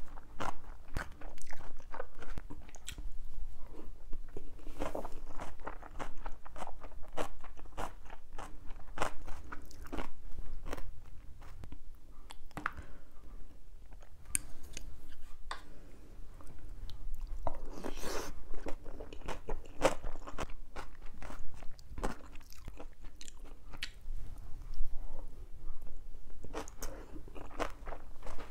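A person eating close to the microphone, chewing and crunching a meal of jjajang noodles and crispy fried pork, with irregular bites and wet mouth sounds. A longer, noisier sound comes about eighteen seconds in.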